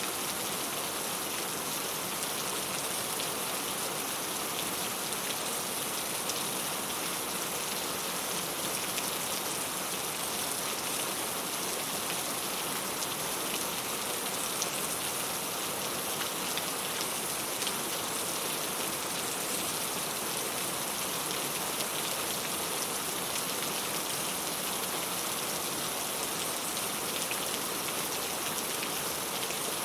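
Steady rain falling on a clay tile roof: an even hiss with scattered ticks of single drops.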